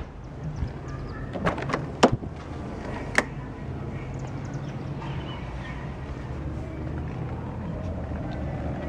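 A 1992 Nissan Stanza XE's 2.4-litre four-cylinder engine idling with a steady low hum, with a few sharp clicks, like interior latches or a door being handled, between about one and a half and three seconds in.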